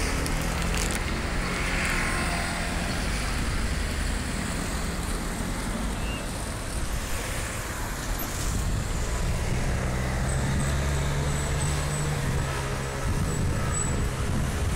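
Steady low engine rumble with road traffic noise, a deeper engine hum swelling between about ten and thirteen seconds in.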